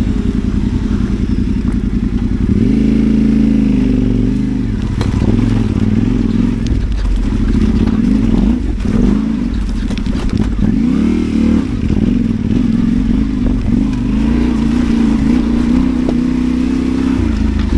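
Adventure motorcycle's parallel-twin engine pulling at low revs on a rough off-road track, its pitch rising and falling with the throttle, with a few knocks along the way.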